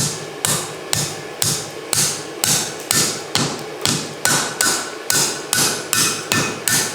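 Cross-peen hammer striking hot mild steel on the anvil's edge in a steady rhythm of about two blows a second, bending the nip of a tong jaw over; some blows leave a short metallic ring.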